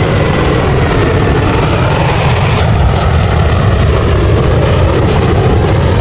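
Airplane engine noise, a loud, steady rumble with hiss.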